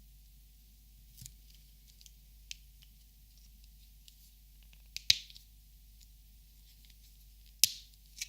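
Plastic Copic markers being handled: a few sharp, separate clicks with faint ticks between them, the loudest about five seconds in and again a moment before the end.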